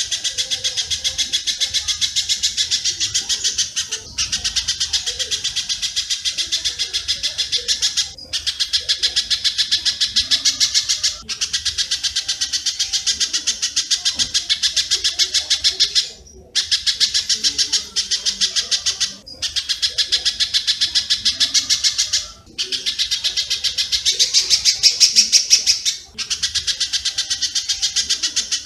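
Looped recording of rapid bird chirps mixing spiderhunter (pijantung) and swiftlet (walet) calls, of the kind played as a swiftlet-house lure sound. It is a fast, even train of high chirps, several a second, broken by short gaps every few seconds.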